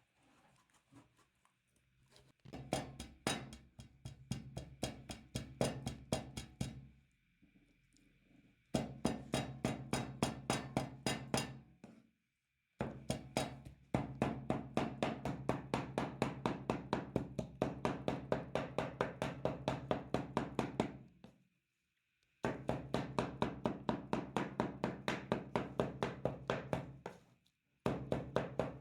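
Chicken meat being pounded for kebab: steady rhythmic thuds, about three a second, in runs of several seconds broken by short pauses.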